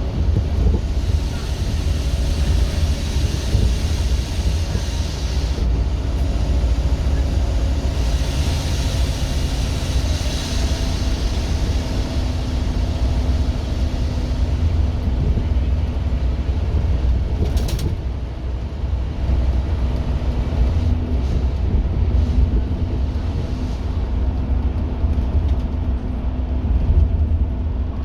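Scania K230UB OmniLink bus's five-cylinder diesel engine pulling hard while under way. It is a steady, loud low drone with road noise.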